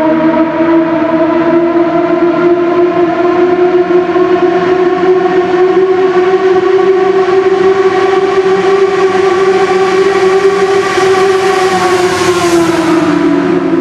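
Kawasaki Balius ZR250A's 250 cc inline-four running at high revs through a WR'S aluminium full exhaust with the end baffle removed, heard riding in a tunnel. A steady, high-pitched wail that creeps up slightly, then drops in pitch near the end as the revs come down.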